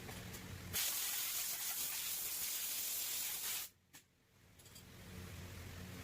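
Pneumatic air gun releasing a steady hiss of compressed air for about three seconds, starting about a second in and cutting off abruptly. A low steady machine hum is there before and after it.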